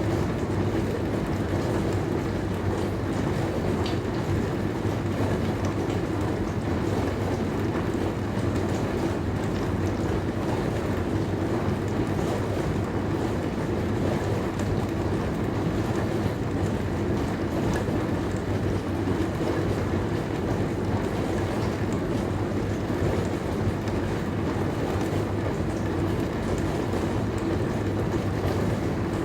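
Dishwasher running: a steady, even hum and rush that holds without breaks.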